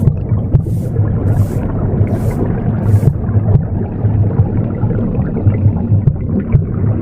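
Recorded womb sound: a steady low whooshing rumble with uneven pulses. Over it, a broom sweeps in hissing strokes about every three-quarters of a second, which stop about three seconds in.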